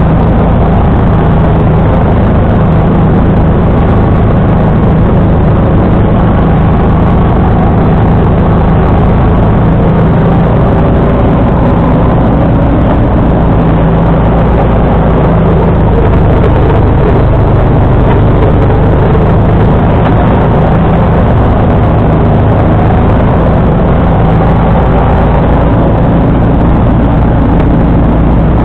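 John Deere 445 garden tractor's V-twin engine running steadily while snowblowing, a constant low hum with no change in pitch.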